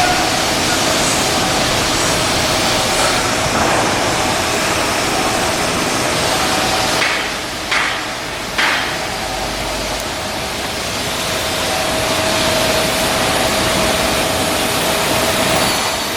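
Shipbuilding work noise: a loud, steady industrial hiss with a faint hum, broken by a few sharp knocks about seven to nine seconds in.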